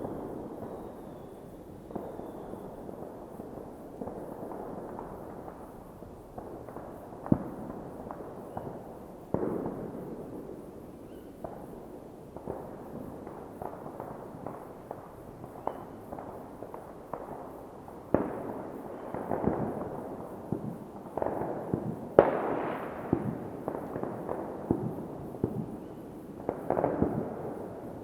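Many fireworks going off near and far: irregular sharp bangs and crackles over a steady background of distant bursts. They grow busier in the second half, with the loudest bang about 22 seconds in.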